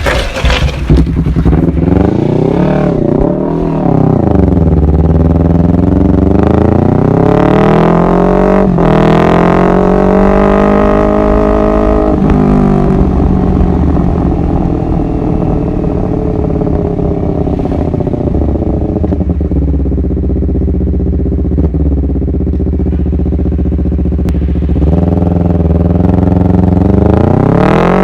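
Honda CBR250RR motorcycle engine under way, the revs climbing and falling several times: a long climb that breaks off about twelve seconds in, a steadier stretch, then a rising rev again near the end.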